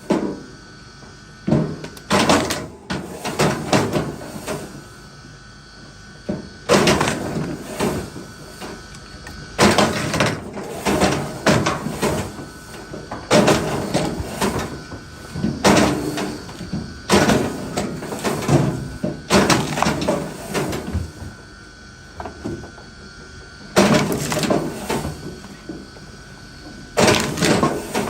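Wood being split and handled: repeated bursts of wooden knocks and clatter, each about a second long, every two to three seconds.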